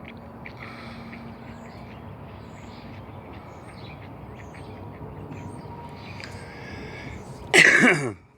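Outdoor background with faint scattered bird chirps, then a sudden loud burst lasting about half a second near the end.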